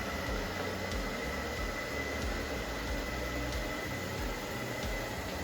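Noisz S5 robot vacuum (iLIFE) running on porcelain tile: a steady whirring hiss from its suction fan and brushes, with a thin, steady high whine over it.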